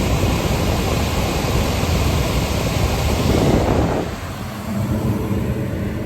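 Gas furnace running with its blower motor on: a steady rush of air that drops in level about four seconds in, leaving a lower hum. It is running through its full firing sequence on a newly fitted control board, the sign that the repair has worked.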